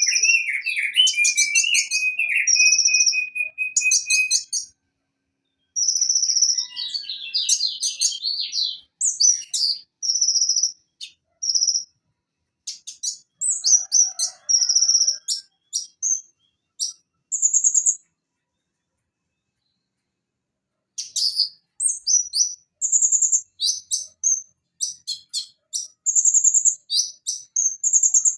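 Van Hasselt's sunbird (konin) singing: runs of rapid, high-pitched chirps and sharp trills, with a lower buzzing trill near the start and two pauses of a few seconds.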